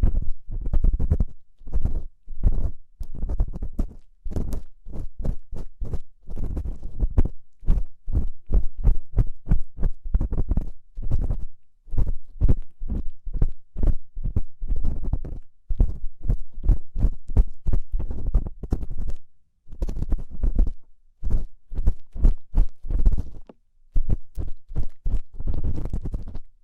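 Close, muffled ear-cleaning sounds: an ear-cleaning tool scratching and scraping inside an ear canal, in runs of crackling strokes with a deep rumble and short pauses between them.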